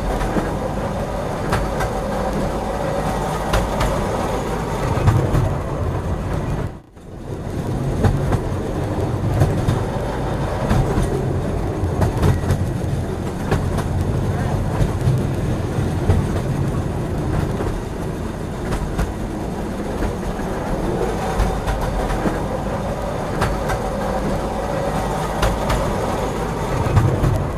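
Train running along the track: a steady loud rumble with many sharp wheel clicks over the rails. The sound breaks off briefly about seven seconds in, then resumes.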